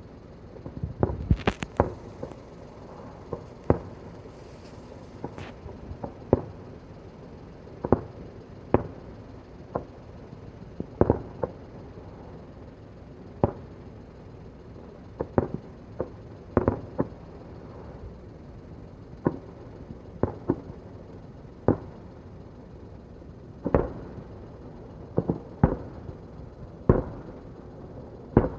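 Fireworks going off: a string of sharp bangs at uneven intervals, about one every second or two, each with a short echo.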